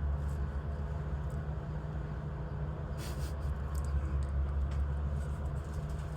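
Steady low hum of a car's engine running, with a few faint clicks and taps over it.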